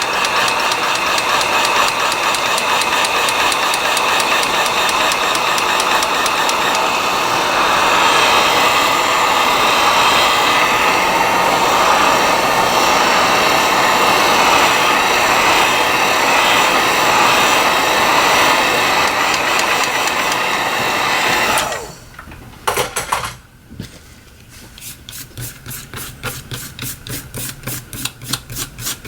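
Electric air blower running steadily with a loud rush of air, drying the alcohol off a phone frame. It cuts off about 22 seconds in, and faint rhythmic rubbing follows at about two or three strokes a second.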